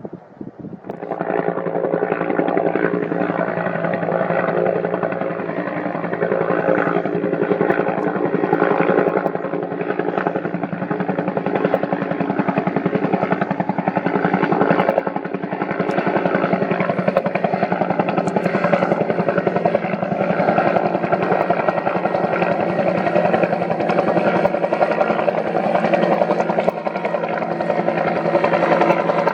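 Bell UH-1N Twin Huey helicopter flying close by: steady rotor and turbine noise with a fast blade beat, starting abruptly about a second in.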